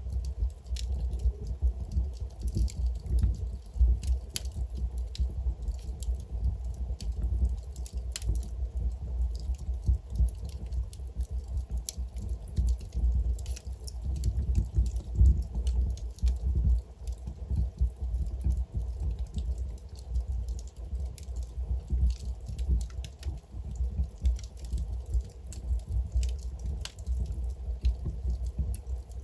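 Wood fire burning in a fireplace: a low, steady rumble of flames with frequent irregular crackles and pops from the burning logs.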